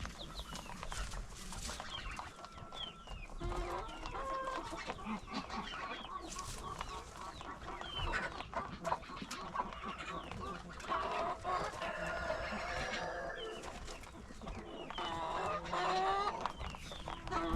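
Flock of chickens clucking and calling, many short overlapping calls, thickest a little past the middle and again near the end.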